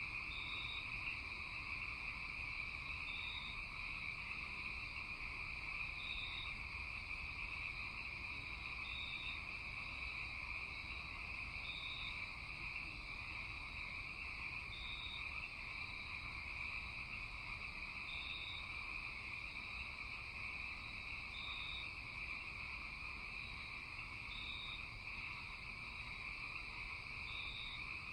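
Night chorus of calling insects and frogs: a steady high trill over a lower continuous chorus, with a short high chirp repeating about every three seconds.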